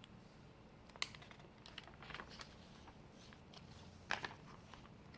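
Faint handling of a paper picture book, a page being turned: a few separate rustles and clicks, the sharpest about four seconds in.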